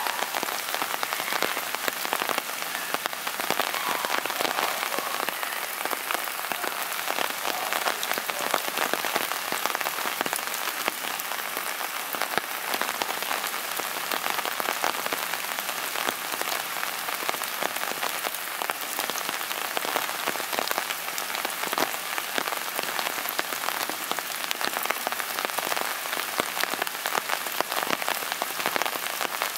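Steady rain falling and striking surfaces close by: an even hiss dotted with many sharp ticks of individual drops, holding steady throughout.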